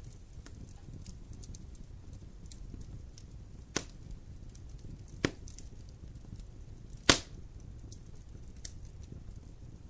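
Wood fire crackling in a fireplace over a low steady rumble, with small crackles throughout and three sharp pops, the loudest about seven seconds in.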